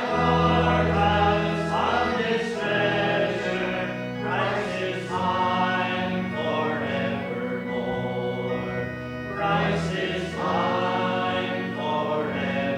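Group of voices singing a hymn in slow, held phrases over instrumental accompaniment with a steady bass line.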